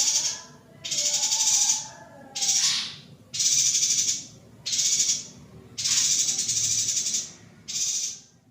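Female yuhina giving a run of harsh, buzzy rattling calls, about six bursts of half a second to a second each, separated by short pauses.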